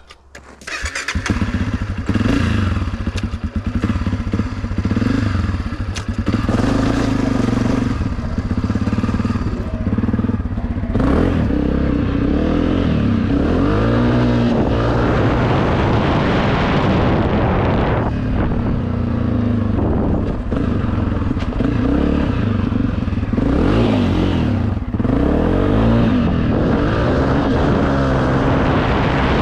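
Dirt bike engine under way, coming in about a second in and then revving up and down again and again as the bike is ridden.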